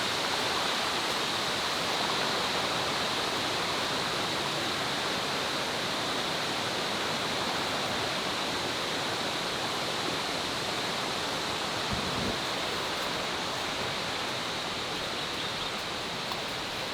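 Steady rush of falling water from a jungle waterfall, with a high, even hiss over it and a soft low bump about twelve seconds in.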